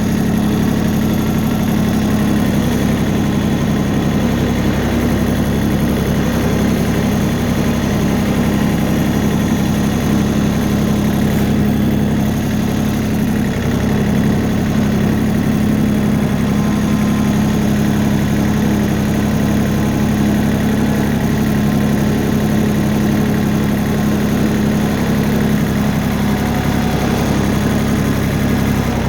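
Tractor engine running steadily at an even speed, a constant hum with no change in pitch.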